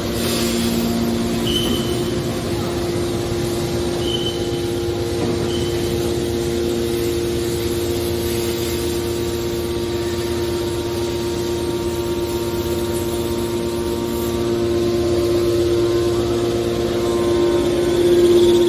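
Hydraulic aluminium can baler running: a steady machine hum with a noisy base, growing a little louder near the end.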